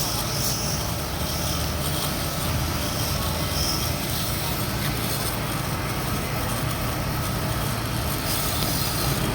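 Jet pressure washer running steadily while cleaning a window AC: a low motor hum under the even hiss of the water spray.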